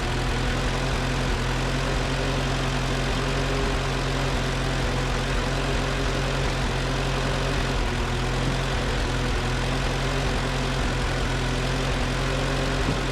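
Freshly rebuilt engine of a 1964 Allis-Chalmers i40 tractor running steadily, with its carburetor, governor and throttle linkage set so that it runs correctly.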